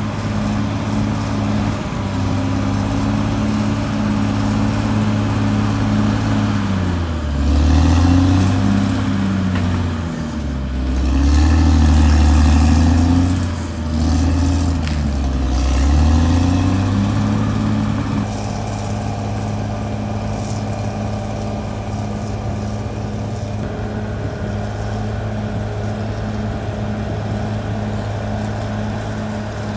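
Caterpillar D6R XL bulldozer's diesel engine running at a steady note. From about seven seconds in, for some ten seconds, the engine note repeatedly drops and recovers and grows louder as the engine lugs under load, then it settles back to a steady run.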